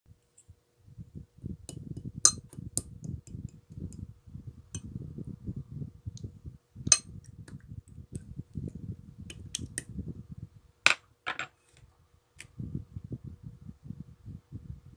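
Clear slime being squeezed and kneaded by hand, giving a low, irregular squishing broken by sharp clicking pops, with three louder ones about two, seven and eleven seconds in.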